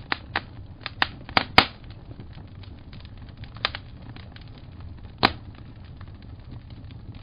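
Wood fire crackling, with sharp pops at irregular intervals over a low steady rumble; the loudest pops come about a second and a half in and again about five seconds in.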